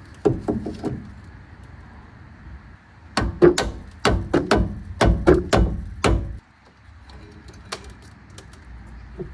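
A quick cluster of sharp knocks, then about three seconds of loud, heavy strikes, eight or so at roughly three a second, during work on a truck's brakes.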